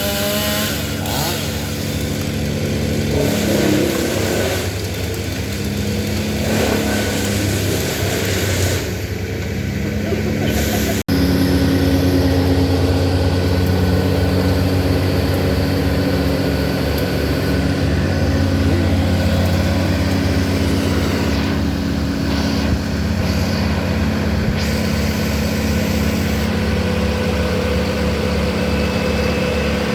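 Engine of the tree crew's machinery running steadily at a constant speed. It cuts off abruptly about eleven seconds in and carries on slightly louder.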